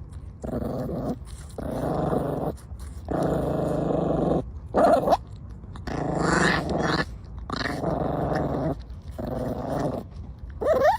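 A dog growling over and over in growls of about a second each, broken by a short, higher yelp about halfway through and another at the end.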